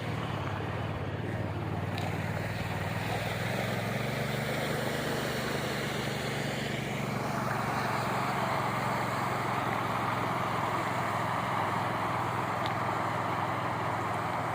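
Floodwater rushing across a road, with a steady low engine hum beneath it. The rush of water grows louder about halfway through.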